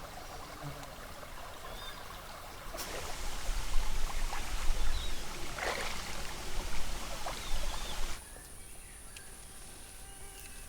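Stream water running and splashing, much louder from about three seconds in, then cutting off suddenly near the end to a quieter outdoor background with a steady high whine.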